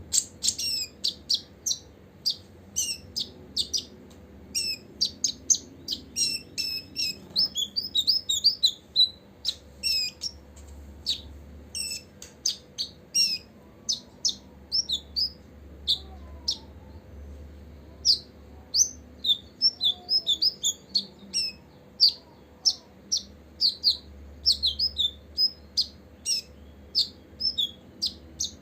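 Copper-throated sunbird calling: a rapid, uneven stream of short, sharp, high chirps, with a brief pause near the middle.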